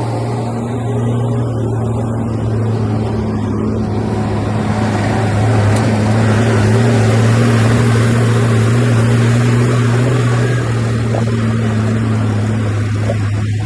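Heavy diesel engine of an earthmoving machine running steadily under load, a low drone. A rushing noise swells about four seconds in and eases off after about ten seconds.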